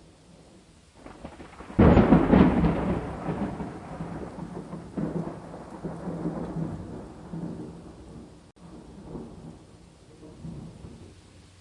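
A thunderclap breaks suddenly about two seconds in and rolls on in rumbles that swell and fade away, over steady rain.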